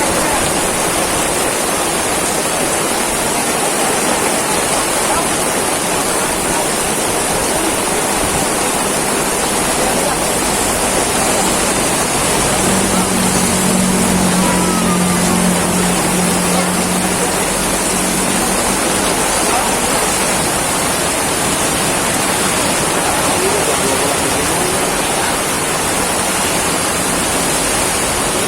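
Very heavy tropical rain pouring down, a steady dense roar of falling water. A low steady hum joins in about twelve seconds in and fades out around nineteen seconds.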